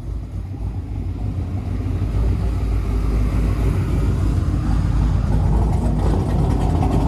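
Doug Rippie LT1 383 stroker small-block Chevy V8 idling, with a nice but not big lope from its mild camshaft. It grows louder over the first couple of seconds, then runs steadily.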